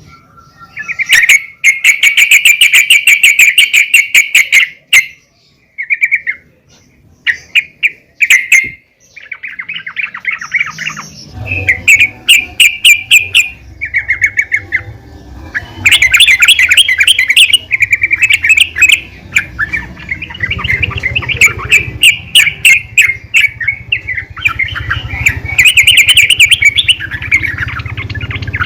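Female yellow-vented bulbul (trucukan) calling: runs of fast chattering trills and repeated bubbly notes, with short pauses between phrases. A low hum runs underneath from about a third of the way in.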